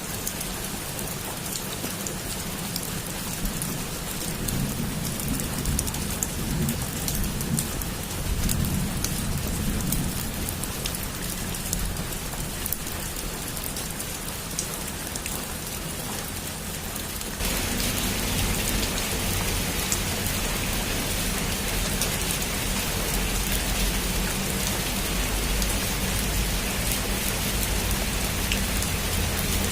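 Heavy rain drumming steadily on a rooftop, with a low rumble underneath. A little past halfway the rain suddenly becomes louder and hissier.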